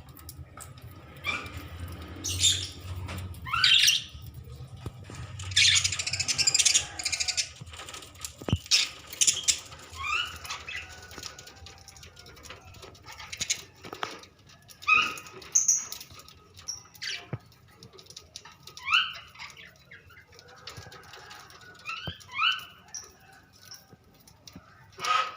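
A colony of budgerigars chirping, with many short rising chirps scattered through, and spells of wings fluttering in the cage.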